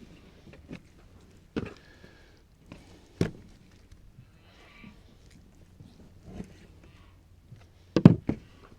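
Scattered knocks and taps of a knife and pork cuts on a cutting table while a hog is being butchered. The knocks are spaced out, with a quick cluster of the loudest ones near the end.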